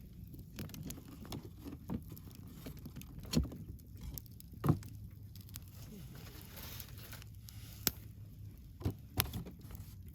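Wood fire crackling over a low steady rumble, with scattered sharp pops. The loudest pops come about three and a half and five seconds in, with a few more near the end.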